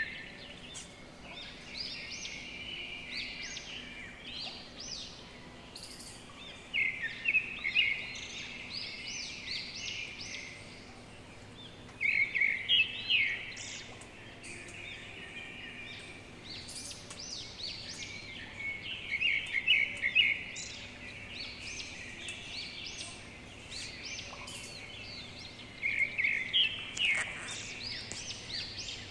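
Birds singing: one bird repeats a loud phrase of quick, sharp chirps about every six seconds, with fainter chirps and twitters in between.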